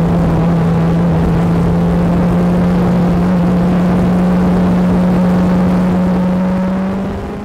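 BAC Mono's four-cylinder engine running hard at high, steady revs, the pitch creeping slowly upward, with wind rushing past the open cockpit. The sound fades out near the end.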